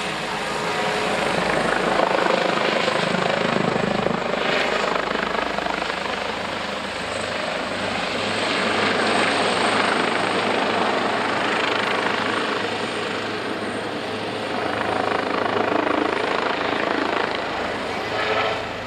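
Airbus H145M twin-turbine helicopter in flight, its rotor and turbine noise steady, swelling and easing several times as it manoeuvres.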